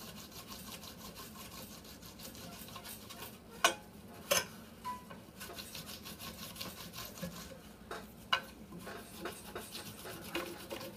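Rubber sanding-belt cleaning block rubbed back and forth over Baltic birch plywood to strip off sticky pattern glue: a soft, steady scratchy rubbing, broken by a few sharp clicks about four seconds in and again near eight seconds.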